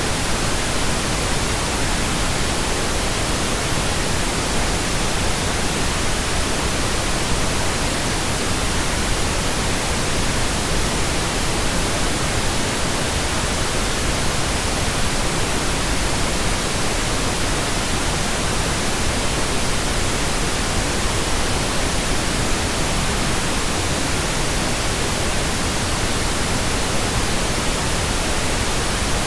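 Steady, continuous pink noise generated in Audacity: an even, unchanging hiss.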